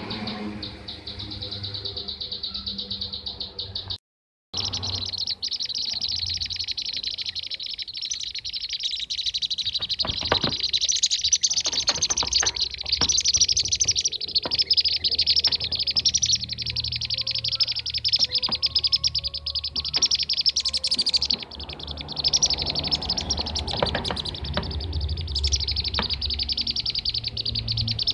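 Recorded calls of kirik-kirik (bee-eaters) played as a lure and master track: dense, rapid high chirping and trilling with no pauses. The recording drops out completely for about half a second, about four seconds in.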